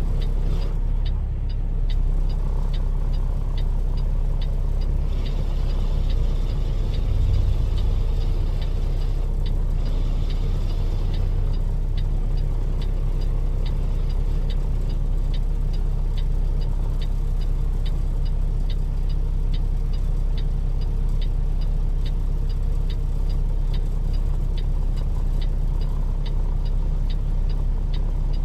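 Truck engine and road noise heard from inside the cab as a steady low rumble. Over it runs a light, even ticking of about two clicks a second, starting about two seconds in.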